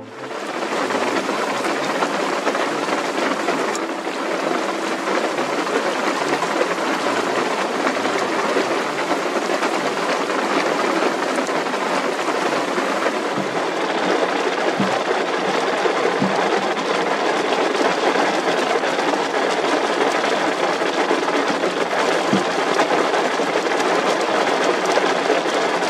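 Very loud, steady heavy rain beating on a car roof, heard from inside the car.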